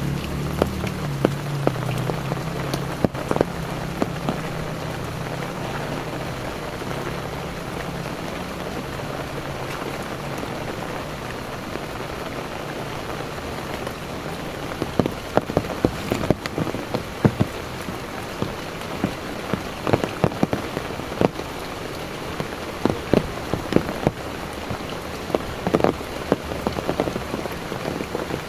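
Heavy rain falling steadily, with a low hum in the first few seconds that fades out. From about halfway, loud sharp drops strike close by again and again.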